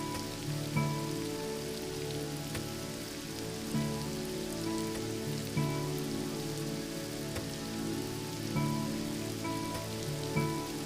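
Steady rain hiss under soft background music of sustained chords that change every second or two.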